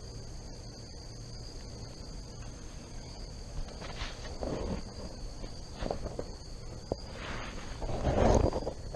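Steady drone of insects holding two high tones, with scuffing, rustling noises about four seconds in and, louder, near the end.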